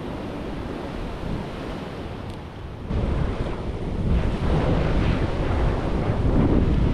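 Wind buffeting the microphone over the steady wash of surf breaking on a beach, growing louder about three seconds in.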